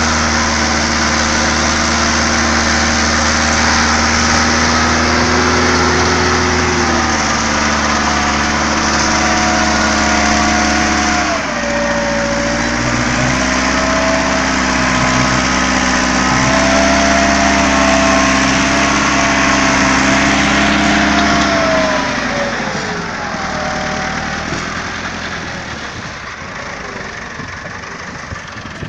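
Tractor engine running steadily, its pitch shifting a few times with a clear drop partway through. Near the end the pitch falls and the sound fades.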